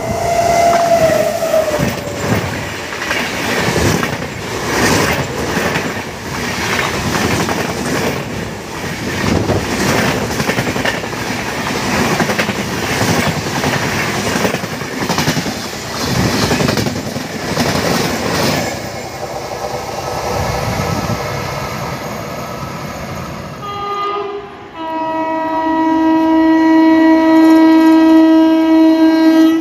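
A WAP-7 electric locomotive sounds its horn, the pitch sliding down as it passes, and then its express coaches rattle past at speed with a steady clickety-clack over the rail joints. Near the end, a local electric train gives a short toot and then a long, steady, loud horn blast as it approaches a platform.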